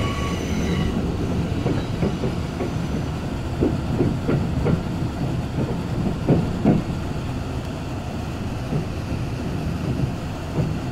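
Interior of a Kintetsu Ise-Shima Liner (23000 series electric train) slowing into a station: a steady low running rumble with a series of wheel clacks over rail joints and points, clustered between about 2 and 7 seconds in.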